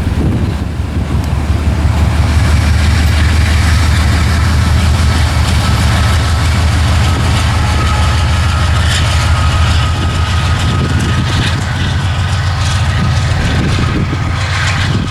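Freight train running: a steady, loud low rumble with a faint high squeal and scattered metallic clicks in the second half.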